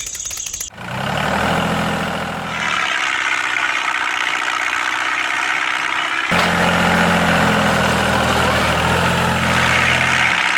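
Heavy truck-like engine idling, a low steady hum over a constant hiss. The hum cuts in abruptly under a second in, drops out near three seconds, and cuts back in about six seconds in.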